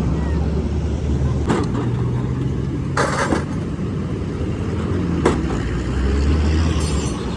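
Steady low drone of engines and road traffic, with three sharp knocks spread over the seconds, the middle one longer and rattling.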